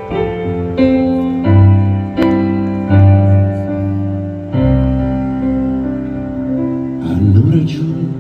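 Piano playing slow, sustained chords, the closing bars of a song, with a voice briefly heard near the end.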